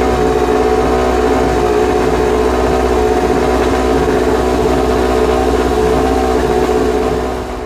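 Racing motorcycle engine running at steady, unchanging revs, easing off slightly near the end.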